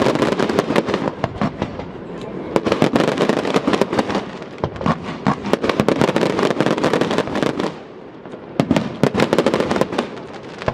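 Aerial fireworks display: a dense, rapid crackling and popping of many bursting effects, easing into a brief lull about eight seconds in before more sharp bangs follow.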